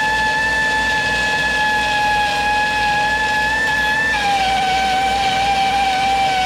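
Angle grinder running on cast iron with a steady whine that drops slightly in pitch about four seconds in, as the disc takes more load. This is the grinding that preps the broken edges for welding.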